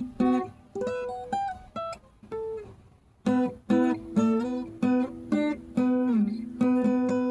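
Acoustic guitar played by hand: a few picked single notes in a slow melodic line, a short pause about three seconds in, then rhythmic strummed chords.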